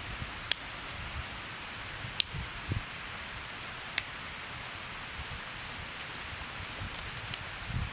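Small twig fire crackling in a compact stove: a steady hiss with a few sharp, isolated pops.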